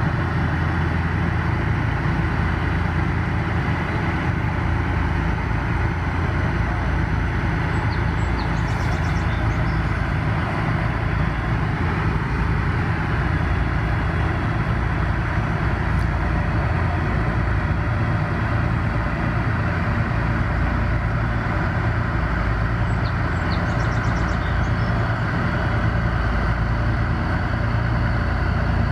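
Steady, unchanging drone of a heavy engine running, with strong low rumble and no change in speed.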